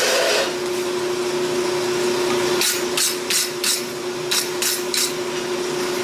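A hand hammer striking hot steel on an anvil, about eight quick blows at roughly three a second starting a little before halfway through, over the steady roar of a forge.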